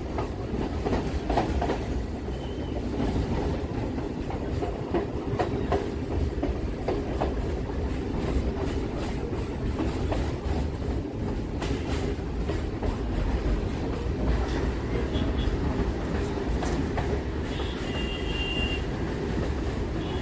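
Kolkata suburban EMU local train running, heard on board: a steady rumble with irregular clicks of the wheels over rail joints, and a short high wheel squeal near the end.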